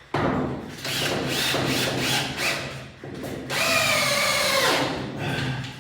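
Power drill driving screws with a magnetic bit, in two runs: the motor starts abruptly and labours under load for about three seconds, then after a short pause runs again with a steadier whine that fades near the end.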